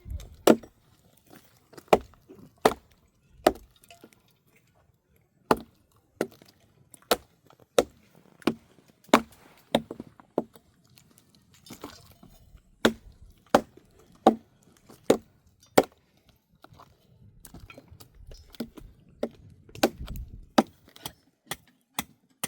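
Wood being chopped by hand: a steady run of sharp strokes, roughly one every 0.7 seconds, with two short pauses, about four seconds in and again about sixteen seconds in.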